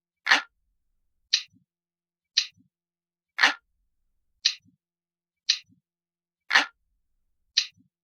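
Analog clock ticking at a steady pace of about one tick a second, eight ticks in all, with every third tick louder and fuller than the two between. It is a realistic ticking loop that runs under a countdown timer.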